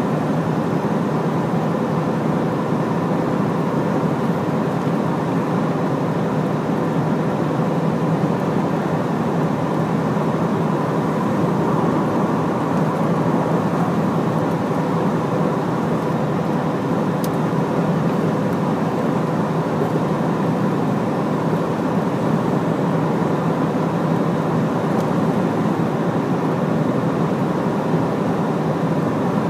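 Large Hino truck driving at a steady pace: engine hum and road noise hold even, with no shifts or revs.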